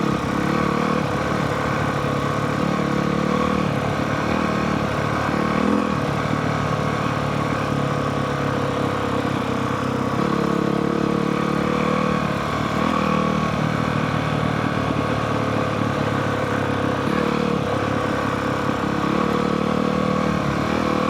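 Honda CRF450R dirt bike's single-cylinder four-stroke engine running while ridden, its pitch stepping up and down every second or two as the throttle opens and closes.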